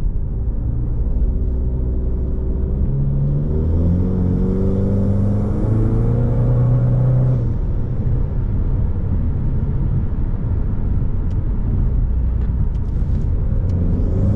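Car engine and road drone heard from inside the cabin, with no speech. The engine note climbs under acceleration from about three seconds in, drops away suddenly about seven and a half seconds in, then settles to a steady cruise.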